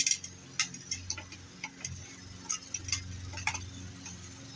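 Irregular sharp metal clicks and small knocks of hand tools taking apart a light fixture, about a dozen in all. Under them, a lawnmower engine hums steadily in the background.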